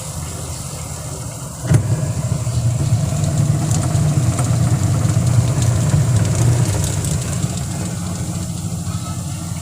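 Eureka automatic washing machine running again after a repair of its no-power fault: a steady low hum, a click about two seconds in, then a louder low mechanical hum for several seconds that eases off near the end.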